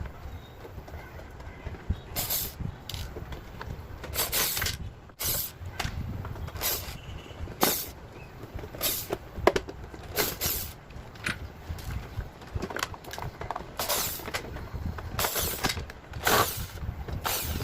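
Parts of an evaporative air cooler being handled and pulled apart during disassembly: irregular knocks, clatter and scraping, about a dozen bursts spread unevenly through the stretch, over a low background rumble.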